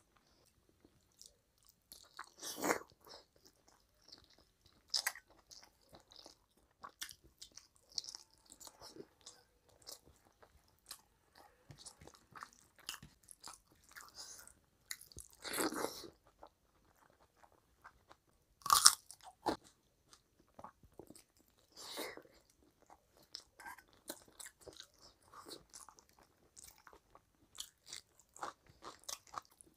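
Close-miked chewing of mouthfuls of rice and curry eaten by hand: scattered small clicks with several louder, brief crunches, the sharpest about two-thirds of the way through.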